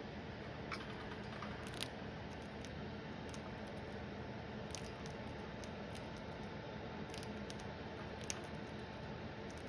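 A pet bird's beak nibbling at a Cheerio, heard as a few sharp little clicks scattered across several seconds over a steady low hum.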